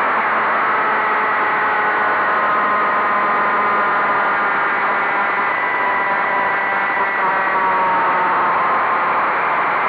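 Motorcycle engine under way at a steady cruise, its note holding nearly level with small drifts in pitch, under heavy wind rush on the microphone.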